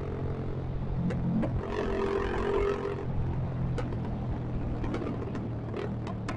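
Motorcycle with a loud open aftermarket exhaust running while riding, its engine note steady with a brief higher tone about two seconds in, over road and wind noise.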